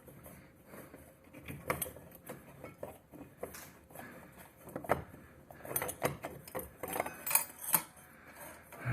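Irregular small clicks, taps and knocks of hard parts and tools being handled, with a few sharper clacks about five seconds in and near the end.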